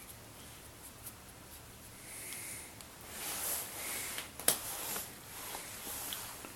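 Rustling and scraping of hands and tools working at the front camshaft cover of a Geely MK engine, a copy of the Toyota 4A-FE. The noises come in several short stretches from about two seconds in, with one sharp click a little past the middle.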